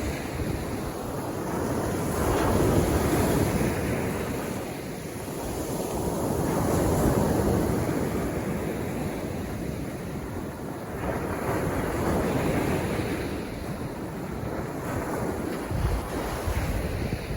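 Sea waves breaking on a beach and washing back, the surf swelling and fading about every four to five seconds, with wind buffeting the microphone.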